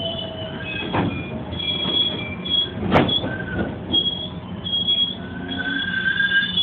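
GO Transit bilevel passenger coaches rolling past at the platform: a steady rumble of steel wheels on rail, with high thin metal squeals that come and go and two sharp clunks, about one and three seconds in.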